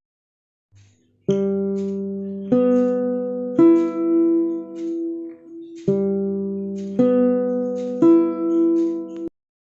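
Guitar chords struck one at a time, six in all about a second apart with a longer gap in the middle, each left ringing; the playing starts after a second of silence and cuts off just before the end.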